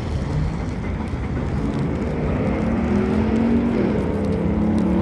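Rain and wind rumbling steadily on the microphone, with a motor vehicle's engine drone passing and slowly shifting in pitch through the second half.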